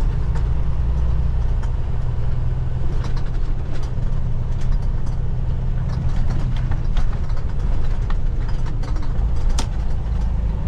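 Semi-truck's diesel engine running steadily at low speed, heard inside the cab, with scattered light clicks and rattles.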